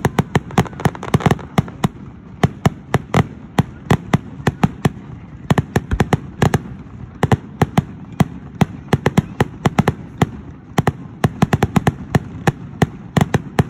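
Fireworks display: a dense, irregular string of sharp bangs, several a second, from shells and comets going off.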